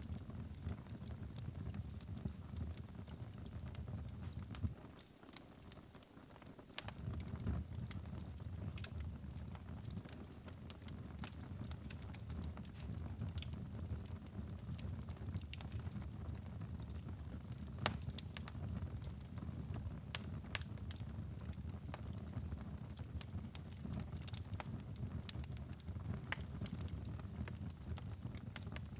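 Fire crackling in a fireplace: a steady low rumble of flames with scattered sharp pops and crackles throughout. The low rumble briefly drops away about five seconds in and returns a couple of seconds later.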